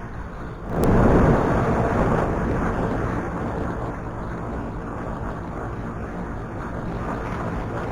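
Motorcycle ride heard through an action camera: a steady rush of wind and road noise, jumping suddenly louder about a second in and easing back over the next few seconds.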